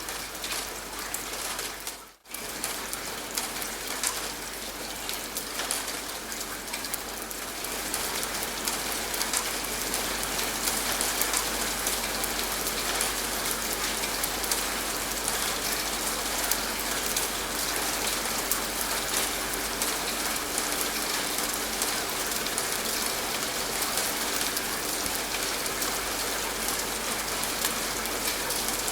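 Steady rain falling on a surface, a dense patter of drops. The sound cuts out for a moment about two seconds in, then grows slightly heavier from about eight seconds on.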